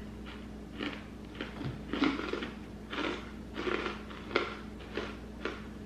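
Crunchy sugar-coated pretzel bites being chewed: irregular crunches about twice a second, the loudest one about four and a half seconds in.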